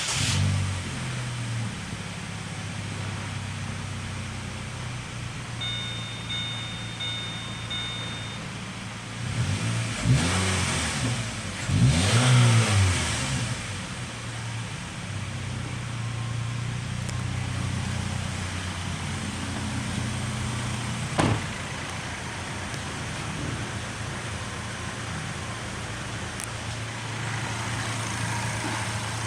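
Holden Captiva engine idling steadily, revved up and back down twice around the middle before settling back to idle. A brief high beeping tone sounds early on and a single sharp click comes about twenty-one seconds in.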